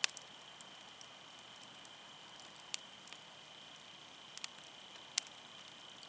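Firewood burning with scattered sharp crackles and pops over a faint steady hiss; the loudest snaps come right at the start and about five seconds in.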